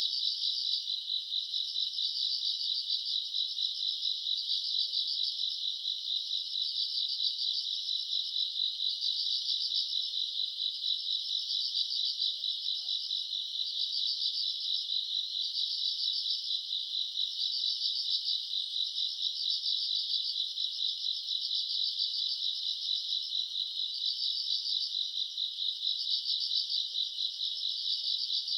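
A chorus of night insects, crickets or katydids in the grass, chirping in a steady high-pitched trill that pulses rapidly and swells and fades every second or so.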